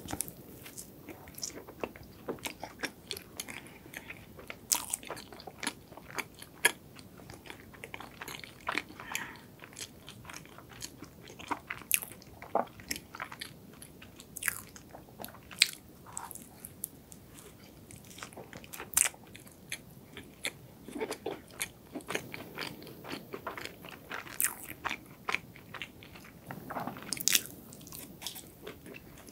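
Close-miked biting and chewing of a chocolate-glazed donut topped with macadamia nut pieces: soft bites with many irregular small crunches and clicks.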